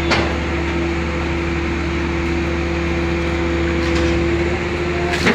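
A vehicle engine running steadily: a constant hum with a steady tone over it, a sharp click just after the start and another sharp sound at the very end.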